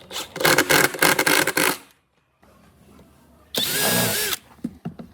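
Woodworking tool sounds: a loud rasping scrape against wood, which stops abruptly, then a brief power-tool whine with a wavering pitch.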